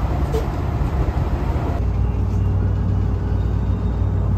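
Commuter train running, heard from inside the car: a steady low rumble of wheels and motors. About two seconds in it changes abruptly to a different car's running noise, with a faint steady hum.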